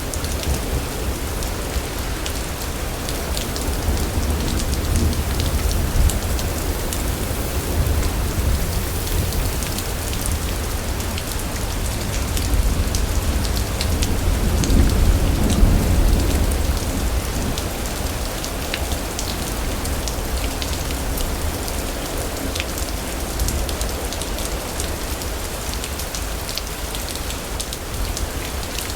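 Steady heavy rain pattering on surfaces over a deep, continuous rumble of rolling thunder, which swells about halfway through.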